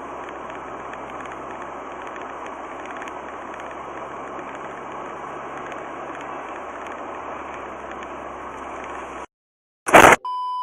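Steady in-car drone of engine and road noise picked up by a dash cam. It cuts off abruptly about nine seconds in. A brief loud burst follows, then a short high-pitched beep near the end.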